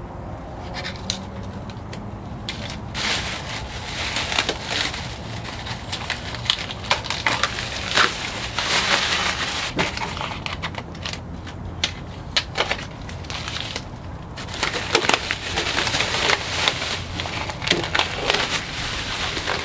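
Masking paper and tape being handled: irregular crinkling, crunching and sharp crackles, thickest in two long stretches, over a steady low hum.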